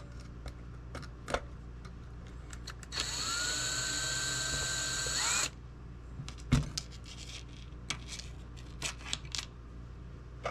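Power drill driving a screw, its whine rising as it spins up and then holding steady for about two and a half seconds before cutting off abruptly. Scattered light clicks and knocks of handling come before and after.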